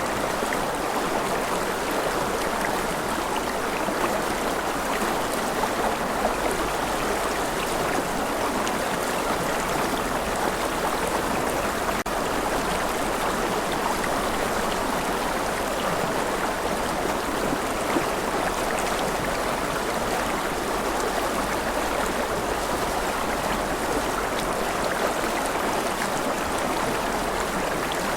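Steady gentle rain falling, an even hiss of water that does not change.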